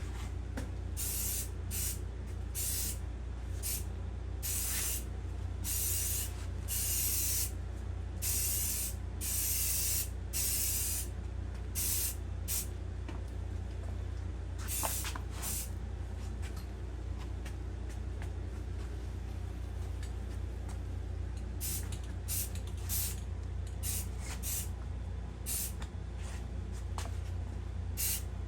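Primer being sprayed onto an engine block in a series of short hissing bursts, close together in the first half, then fewer and spaced out, over a steady low hum.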